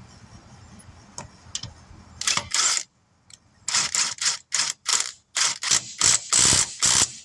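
Impact wrench run in about a dozen short bursts, running lug nuts onto the wheel studs of a 2009 Nissan Armada.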